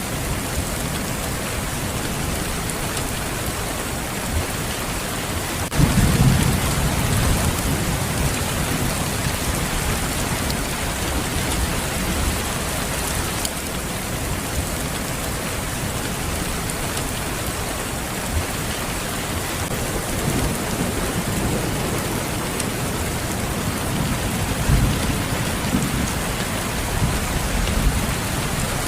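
Steady rain falling, with a low thunder rumble about six seconds in and fainter rumbles near the end.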